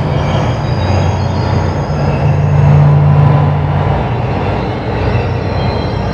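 Electronic ambient drone: a dense, rumbling wash of noise over a low steady hum, swelling a little about halfway through.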